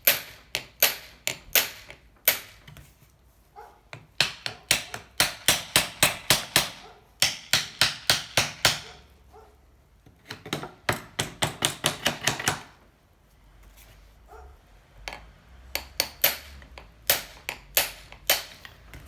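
Rapid hammer blows on a seized Honda C70 engine, struck to free the stuck piston and cylinder. The sharp strikes come about three a second in four runs, with short pauses between them.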